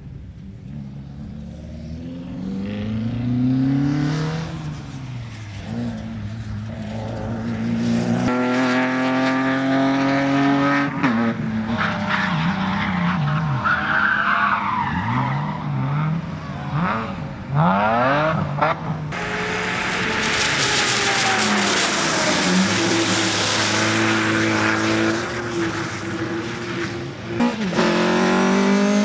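Rally cars driven hard through a slalom, engines revving up and dropping back again and again between gear changes and braking, with tyres skidding. The sound changes abruptly twice, about a third and two thirds of the way in, and a loud hissing rush of noise runs through much of the second half.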